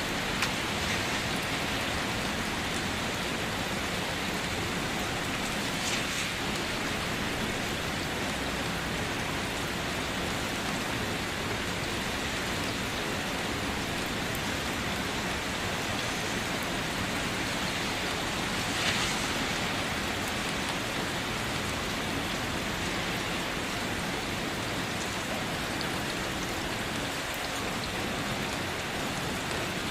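Steady rain falling on a car, heard from inside, an even hiss of drops with a couple of slightly louder splashes about six seconds in and again near nineteen seconds.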